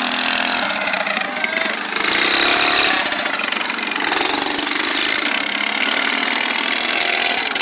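Small mini bike engines running hard in a race, buzzing and rising and falling in pitch. The sound swells and is louder from about two seconds in.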